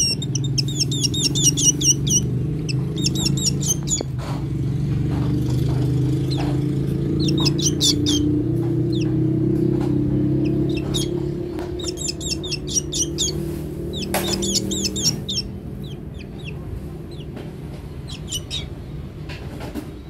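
A black bird calling in quick runs of high, rapid chirps, several bursts a few seconds apart, as a hungry bird begs for food. A steady low hum runs underneath and fades after about fifteen seconds.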